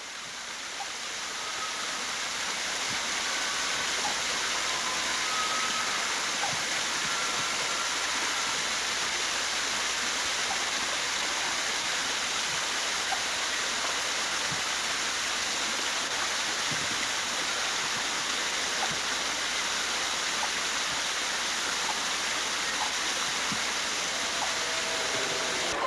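Steady rushing noise, like falling water, fading in over the first few seconds and then holding level, with a few faint short high tones.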